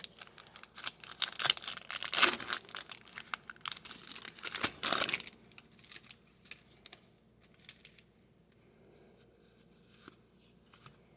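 A trading card pack wrapper being torn open and crinkled, with dense crackling for about five seconds, then a few faint ticks of cards being handled.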